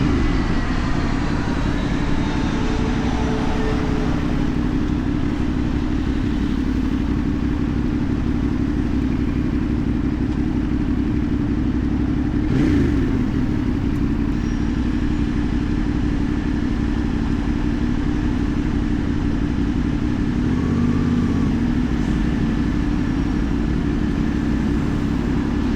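CFMoto 450NK's parallel-twin engine running at a steady cruising speed, with wind noise on the microphone. About halfway through there is a brief falling sound.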